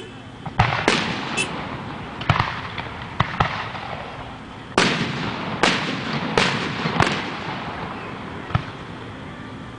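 Aerial fireworks going off: a string of about ten sharp booms at irregular intervals, several coming in quick succession about halfway through, each trailing off.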